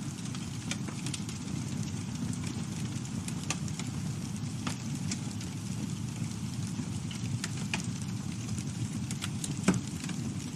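Campfire burning: a steady low rumble of flames with scattered crackles and pops, and one louder pop near the end.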